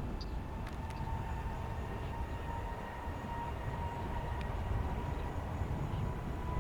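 Jet aircraft engines running at a distance: a steady low rumble with a faint high whine held on one pitch.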